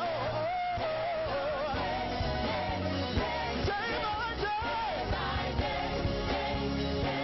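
Church praise-and-worship music: a lead singer's voice sliding and wavering in pitch over a band with steady bass notes and regular percussion hits.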